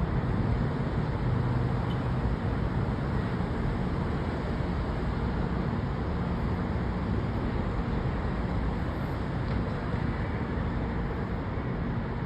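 Steady city traffic noise: a continuous wash of car engines and tyres on the roads below, with no single vehicle standing out.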